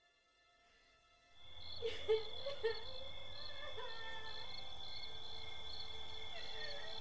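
Night ambience of insects chirping, with a steady high drone and repeated short chirps, fading in a little over a second in over a faint held music tone.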